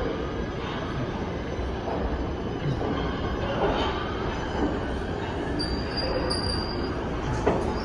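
Train running on rails, a steady rumble of wheels and cars, with a faint high wheel squeal in the second half and a sharp click near the end.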